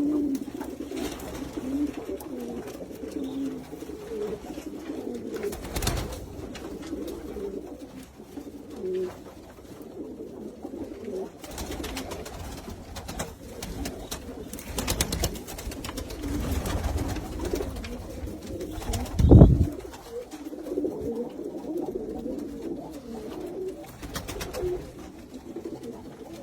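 Domestic pigeons cooing together in a continuous low warble, with occasional knocks, the loudest about three-quarters of the way through.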